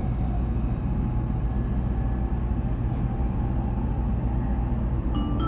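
Steady low rumble of a Shinkansen bullet train running at speed, heard inside the passenger cabin. Near the end, the onboard chime that precedes an announcement begins, a run of bell-like tones.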